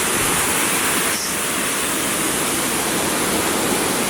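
Waterfall on the American River: a steady rush of water falling and spilling over rocks.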